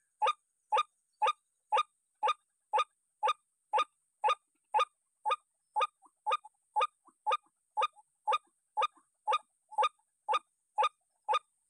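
White-breasted waterhen (ruak-ruak) call, a short honking note repeated evenly about twice a second.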